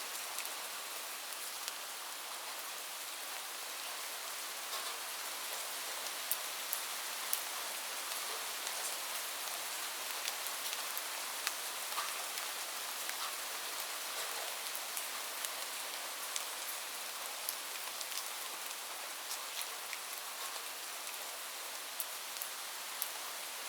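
Steady rain falling: an even hiss with many separate drops ticking on a surface close by.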